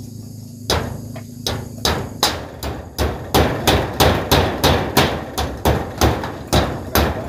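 Hammer driving nails through corrugated zinc roofing sheets. A few spaced blows at first, then a steady run of about three blows a second from about three seconds in.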